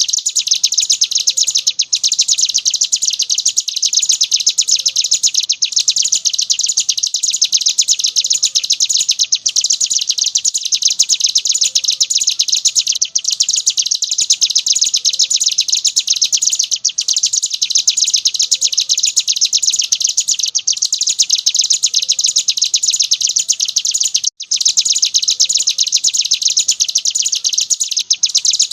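Ciblek gunung (a prinia) singing in 'ngebren' style: a continuous, very rapid high-pitched chattering trill with a brief break every few seconds.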